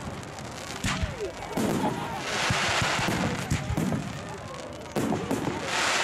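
Fireworks display: a run of sharp bangs from bursting shells and rockets, with two longer stretches of crackling, one about two and a half seconds in and one near the end.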